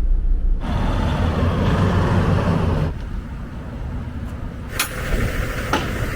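Low, steady vehicle engine rumble, with a louder stretch of noise lasting about two seconds near the start and a couple of sharp clicks near the end.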